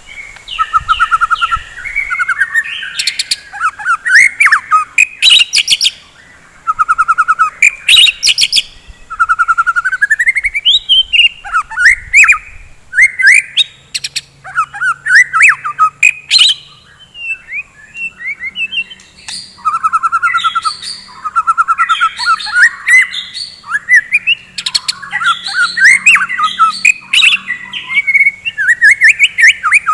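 White-rumped shama (murai batu) singing in fast, varied phrases: rapid trills of repeated notes, rising whistles and sharp clicking notes, in bursts with brief pauses between them.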